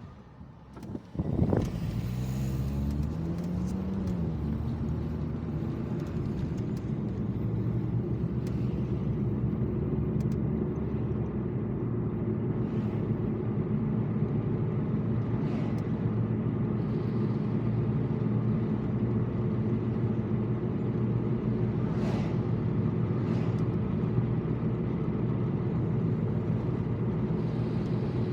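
Car engine heard from inside the cabin. After a thump about a second and a half in, it pulls away with its pitch rising, then settles into a steady drone while driving.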